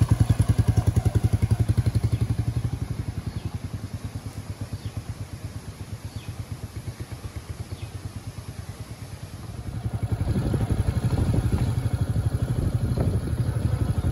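Royal Enfield Meteor 350's single-cylinder engine running at low speed with an even beat, fading as the bike pulls away, then louder again from about ten seconds in.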